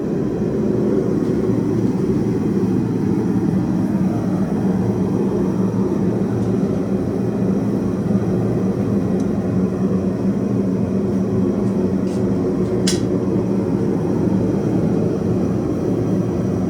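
Gas forge burner running with a steady roar while steel heats in the fire. One short sharp click about three-quarters of the way through.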